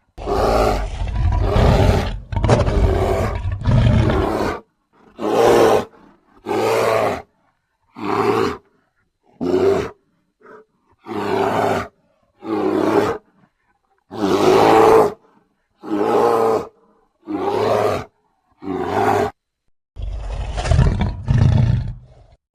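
Sound-effect roars of a large bear, made for the extinct Florida spectacled bear: one long drawn-out roar of about four seconds, then a run of short roars, roughly one every second and a half, with silent gaps between them.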